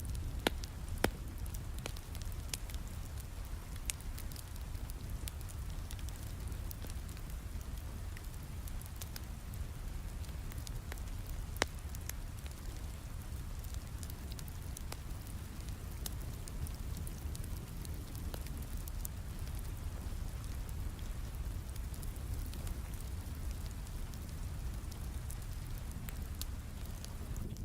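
Wood fire crackling over steady rain: a continuous low rumble and hiss with scattered sharp pops, the loudest about half a second in, at one second and near twelve seconds.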